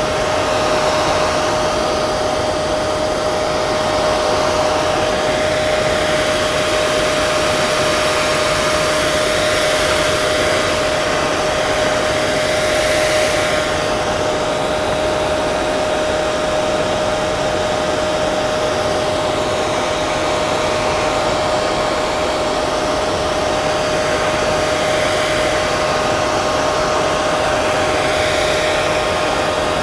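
Hair dryer running continuously: a steady airy rush with a constant motor whine.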